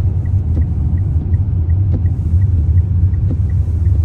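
Car driving, heard from inside the cabin: a steady low road rumble, with a faint high tick repeating about three times a second.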